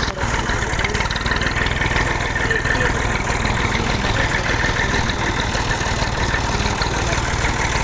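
Tractor engine running steadily with a constant low rumble.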